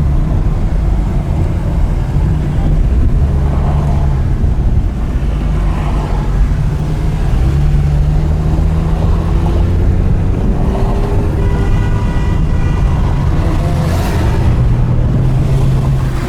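Porsche Carrera GT's V10 with an FVD exhaust running at low revs: a steady, deep drone whose pitch steps up and down a few times, with a brief rush of hiss about 14 seconds in.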